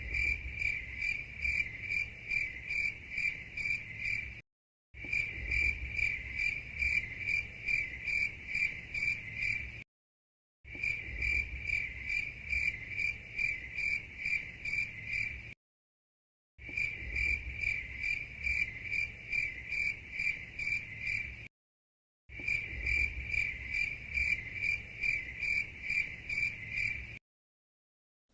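Cricket chirping, a high trill of evenly spaced pulses, about four or five a second. It comes in five stretches of about five seconds each, broken by short dead silences, like a looped sound effect.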